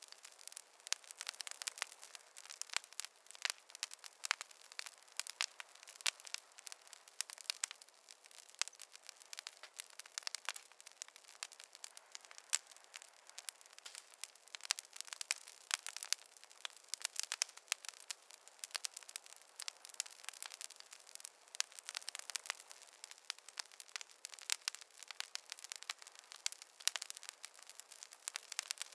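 Wood fire crackling steadily: a dense run of sharp pops and snaps from burning logs, with a faint hiss between them.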